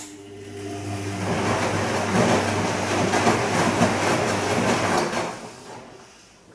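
Bosch Serie 2 VarioPerfect washing machine on its gentle Silk programme: a click, then a motor hum and water swishing that build up, run for about five seconds and fade away.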